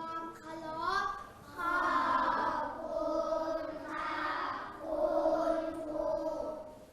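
A class of young children chanting together in unison, in long drawn-out syllables, like a classroom's sing-song reply to the teacher's goodbye.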